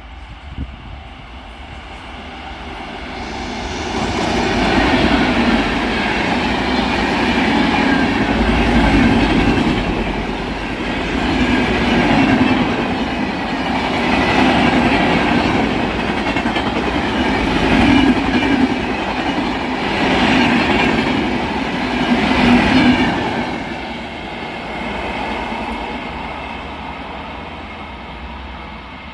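Passenger express train hauled by an electric locomotive passing at speed: the rush of the coaches builds up, runs loud with a rhythmic clatter of wheels over the rail joints, then fades as the train moves away.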